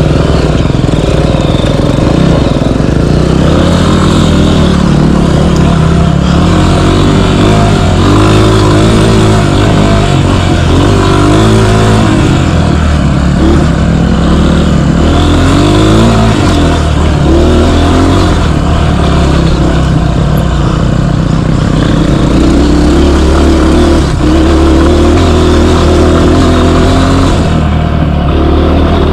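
Dirt bike engine revving up and down with throttle changes while climbing a trail, loud and close to the microphone.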